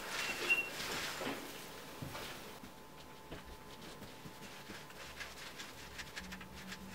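Plastering tools working wet decorative plaster: a few soft scraping swishes, then quieter small clicks and patter.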